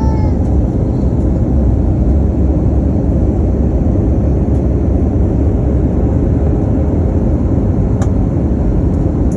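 Steady, loud airliner cabin noise in flight: the even rumble of jet engines and airflow, with a faint steady hum and a small click about eight seconds in.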